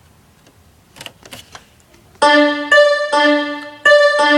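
A boy imitating a piano with his mouth: a run of short, steady, piano-like notes with sharp starts, beginning about two seconds in after a few faint clicks.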